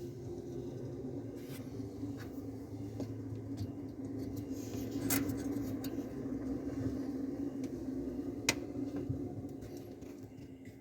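Samsung side-by-side refrigerator's compressor running with a steady low hum and a few light clicks and taps, freshly gas-charged and cooling with its coils iced over. The hum fades near the end.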